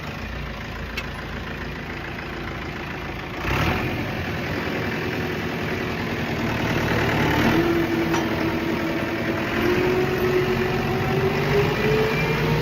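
Tractor engine running while its PTO drives a hay tedder. About three and a half seconds in the sound jumps louder, and from about halfway a whine slowly rises in pitch as the machinery speeds up.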